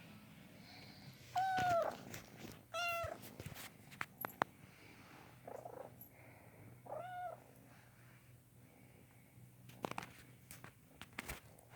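Domestic cat meowing three times in short, arching calls and purring, with a few light clicks and rustles.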